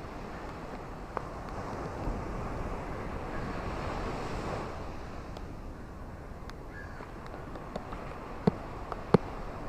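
Ocean surf washing on a beach in a steady rush that swells around the middle. A few sharp clicks come near the end.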